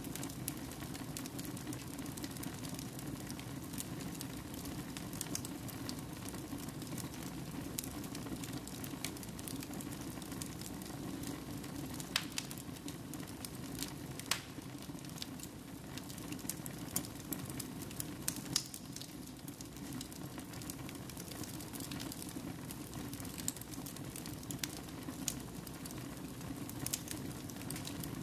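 Fire burning in a fireplace: a steady low rush with sharp crackles and pops at irregular intervals, a few louder pops standing out.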